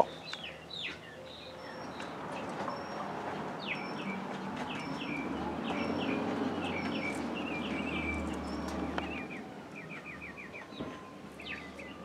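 Birds chirping in short, falling calls scattered throughout, with a quick run of about six notes about three-quarters of the way through, over a faint low background rumble.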